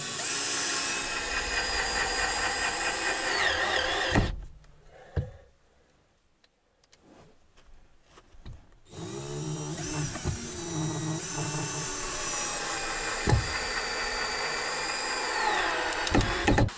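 Electric saw cutting through wooden ceiling boards in two runs, the motor pitch sagging just before each run stops, with a few knocks in the quiet gap between them.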